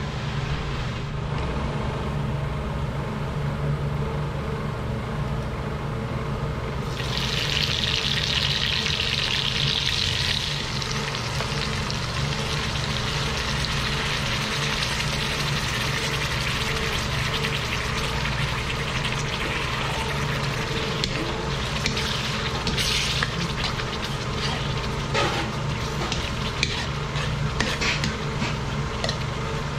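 Onions frying in hot oil in a metal wok, the sizzle loudest for a few seconds about seven seconds in. In the second half a metal ladle stirs and scrapes against the pan with small clicks, over a steady low hum.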